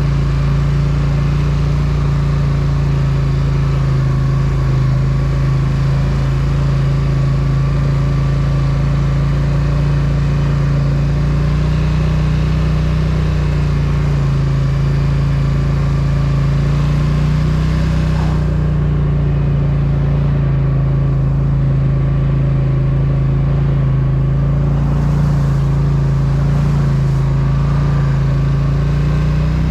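Polaris Sportsman 1000 ATV engine running at a steady pace, its pitch wavering only slightly with the throttle.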